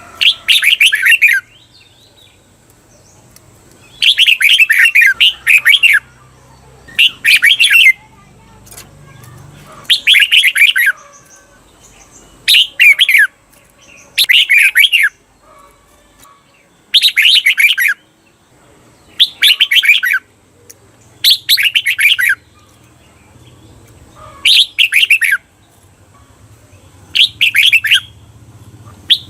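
Red-whiskered bulbul singing short warbled song phrases, each about a second long, repeated every two to three seconds and sometimes in quick pairs. This is the doubled (เบิ้ล) song used to train caged bulbuls.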